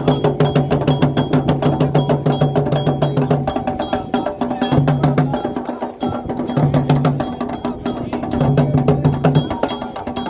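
Candomblé toque: hand drums and a struck bell or wood-block sound playing a fast, dense rhythm, with a low steady tone sounding in several stretches.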